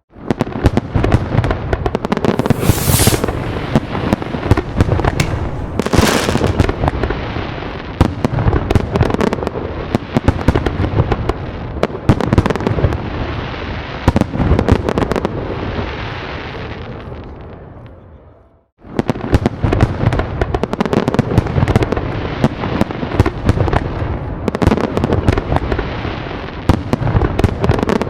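Fireworks going off in a dense, continuous barrage of bangs and crackling. About two-thirds through it fades and cuts to silence for a moment, then the barrage starts again at full strength.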